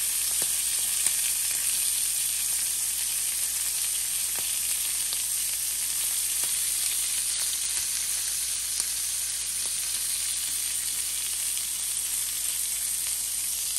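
Large shrimp sizzling in a ridged cast-iron grill pan over medium heat: a steady, high hiss with light crackling and a couple of small pops.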